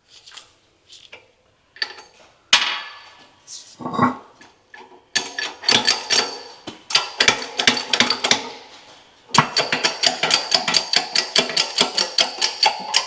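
Metal hand tools clanking against the bearing press tool on a rear wheel hub, then fast, evenly spaced metallic clicking, about four or five a second, from about nine seconds in as the tool is worked to drive the wheel bearing in.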